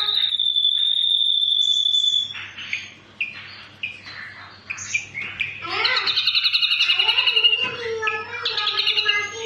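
Ashy drongo singing: a long steady whistle held for about two seconds, then a run of varied chirps and short notes, and from about six seconds in a fast series of rapidly repeated notes.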